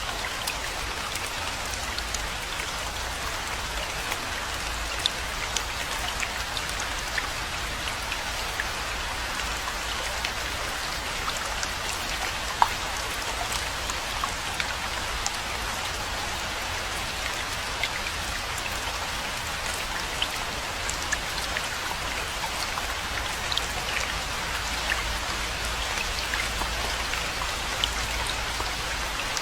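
Steady rainfall, a constant hiss of rain with many individual drops ticking sharply on a surface.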